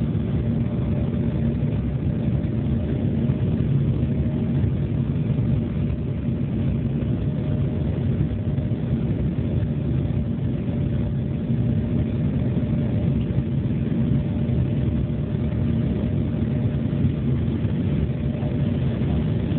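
Embraer E-175 jet airliner running steadily: a low, even drone of engine and airflow noise with a faint constant hum, unchanging throughout.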